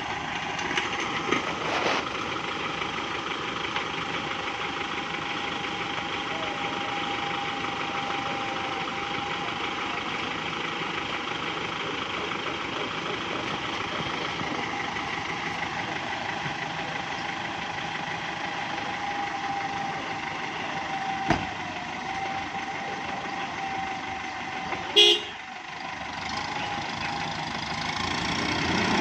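Kubota M5702 tractor's diesel engine running steadily under load as it pulls on a stuck truck. There is a sharp knock about three quarters of the way through, then a brief loud higher sound a few seconds later.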